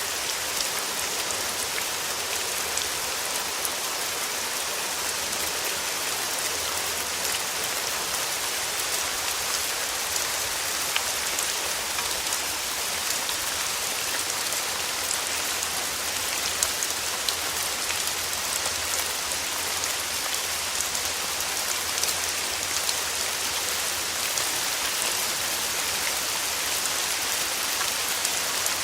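Steady rain falling on a surface, a dense even hiss with scattered individual drops ticking now and then.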